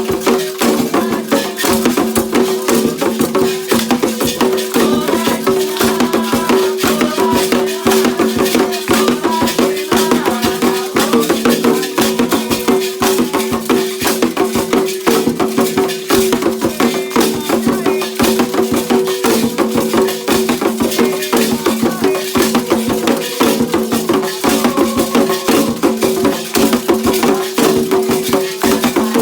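Candomblé ritual music: rattles shaken in a fast, steady rhythm, dense with percussion strokes, over steady held tones and voices.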